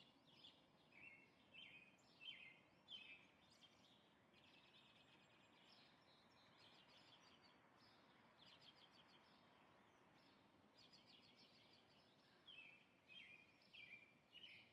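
Faint birdsong: short falling chirps repeated in quick series near the start and again near the end, with softer rapid chirping in between.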